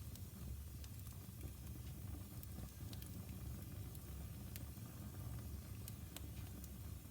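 Wood fire burning in a fireplace, crackling with sharp pops and snaps at irregular moments over a low steady rumble.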